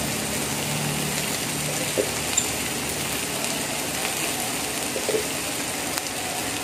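Onions, tomato and green chili frying in oil in a nonstick pan: a steady sizzle, with a few faint clicks about two and five seconds in.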